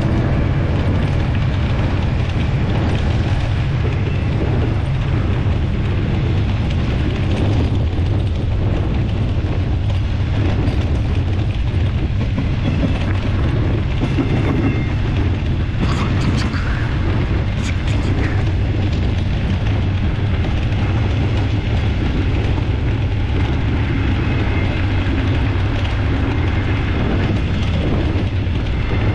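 Double-deck passenger train running past on the adjacent track: a loud, steady low rumble, with two brief sharp clicks about two-thirds of the way through.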